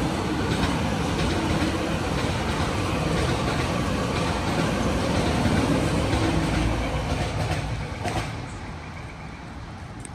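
An electric passenger train running past on the station tracks, a steady rumble of wheels on rail that fades away from about eight seconds in.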